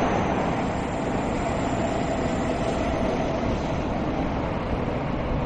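MEMU electric multiple-unit train running on the track: a steady rumbling rush of wheel and rail noise.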